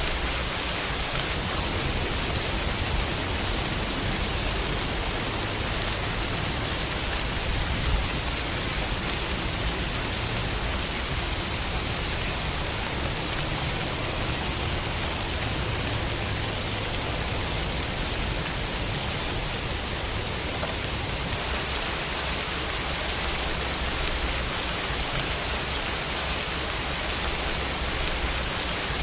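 Steady rain falling, a dense even hiss of drops on surfaces, with one brief louder drop or tap about eight seconds in.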